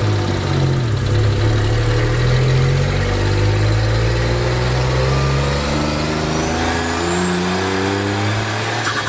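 Turbocharged kei van engine accelerating under load on a boost-testing pull, its pitch climbing steadily. A thin high whine rises alongside it over the last few seconds.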